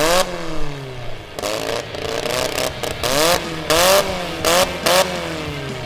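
Four-cylinder demolition derby car engine revved hard in repeated short bursts. Each rev climbs in pitch and drops back, with a harsh exhaust rush.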